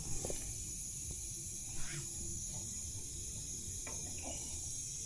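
Steady hiss of pressurised gas escaping, with a low rumble underneath, at an even level throughout.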